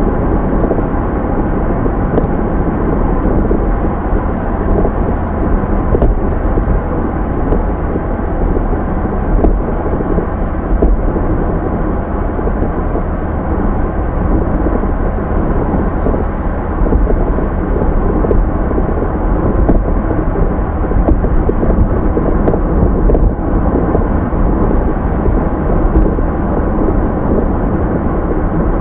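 Steady road noise of a car on the move: a continuous low rumble of tyres and engine, with a few faint clicks.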